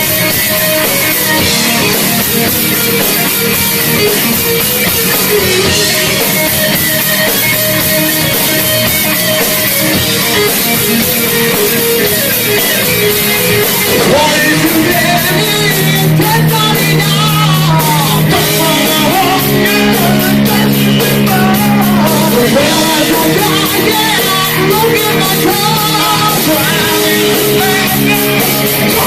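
Live heavy metal band playing loud, with distorted electric guitars and drums. About halfway through it moves into a section of long held low notes with a wavering melodic line above them.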